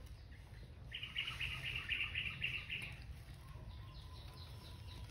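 A bird's rapid, high chirping trill lasting about two seconds, starting about a second in, over a low background rumble.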